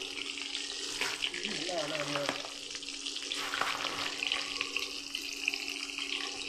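Fish frying in hot oil, a steady sizzle with many small crackles.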